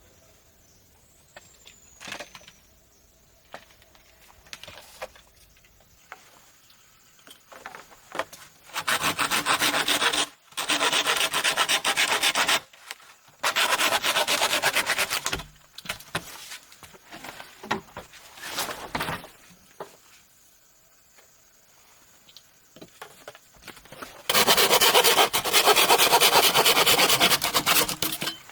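Bamboo being sawn by hand in four bouts of two to four seconds each, the saw teeth rasping quickly through the cane, with scattered knocks and handling sounds between the bouts.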